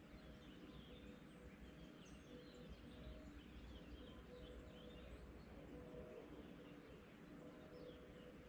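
Faint dawn chorus of small birds: many quick chirps and twitters, thickest in the first few seconds, over a low background rumble.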